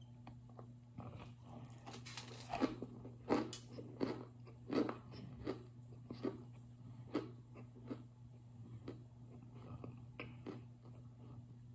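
Close-up crunching and chewing of a dry, compacted cornstarch brick. A quick run of crisp crunches begins about two seconds in, loudest a few seconds later, then thins out to softer chewing near the end. A steady low hum runs underneath.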